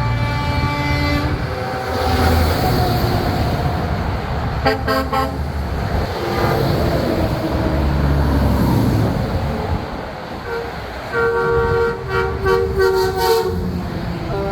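Semi-truck air horns blasting as big rigs pass, over the rumble of diesel engines: one horn at the start, a few short blasts about five seconds in, and a longer chord of horn notes near the end.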